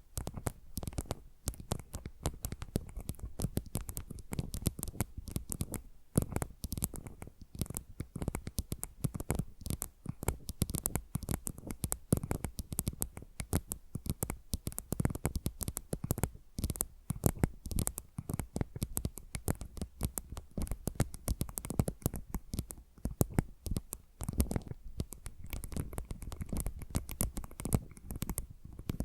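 Fingernail scratching and tapping on objects held close to the microphone: a dense, continuous stream of quick clicks and scratches, with two tracks layered left and right.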